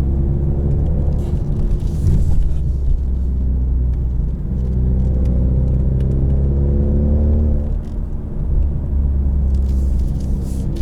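2020 Ford Mustang EcoBoost's 2.3-litre turbocharged four-cylinder running loud through its optional active valved performance exhaust under acceleration. The engine note climbs steadily in pitch through the middle and falls back about eight seconds in.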